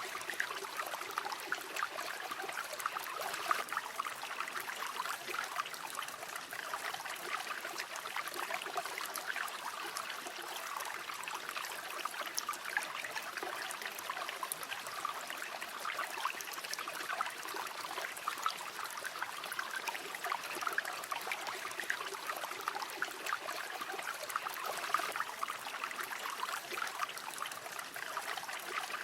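Shallow river water flowing and trickling steadily, a continuous splashing babble with fine flickers of gurgling.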